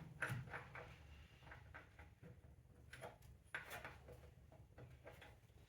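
Near silence with a few faint clicks and knocks of a wrench being handled and repositioned on the crank bolt of the seized engine.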